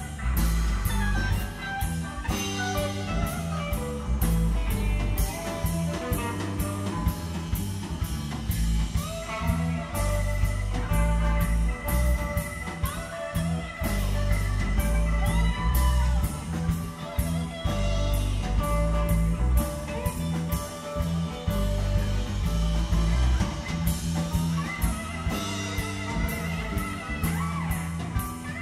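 Live band playing an instrumental blues-rock jam, with no singing: electric guitar lines with bent notes over bass and a drum kit keeping a steady beat.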